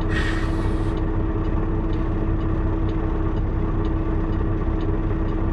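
Semi truck's diesel engine idling, a steady rumble and hum heard inside the cab, with a short hiss at the start and faint regular ticking.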